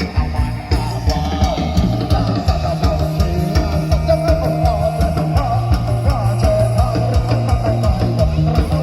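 Loud band music from a Thai procession band: drum kit, heavy bass and electric guitar playing a fast, steady beat.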